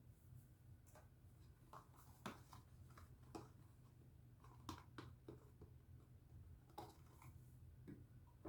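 Faint handling noises from hands working a bar of soap: scattered soft clicks and rustles, about a dozen of them, over a low steady hum.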